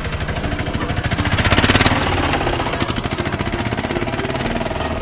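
Tempo (three-wheeled goods carrier) engine running with a fast, steady chugging, briefly louder about a second and a half in.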